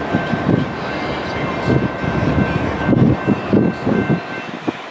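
A train running past with a low rumble and irregular heavy thumps, faint steady high-pitched tones above it. It quietens about four seconds in.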